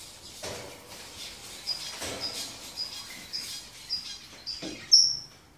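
Bird chirping: a run of short high chirps, about two a second, ending with a louder, longer chirp near the end.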